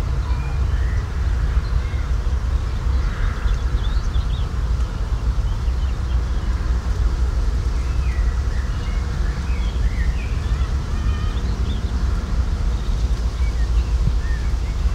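Birds chirping and calling, many short high calls scattered throughout, over a loud, steady low rumble.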